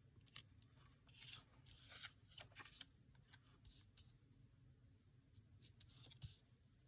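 Faint, scattered rustling and light taps of paper being handled and positioned on a journal page, with a slightly louder rustle about two seconds in.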